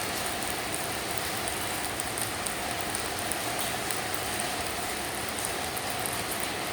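Steady rain falling on hard outdoor surfaces, with scattered light ticks of drops.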